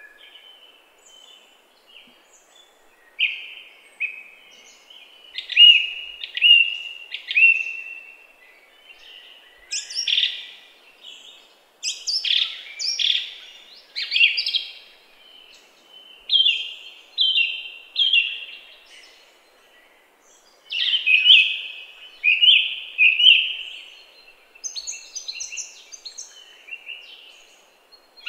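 Bird chirping: short, sharp, falling chirp notes delivered in quick clusters of three or four, with short pauses between the clusters and a few higher notes near the end.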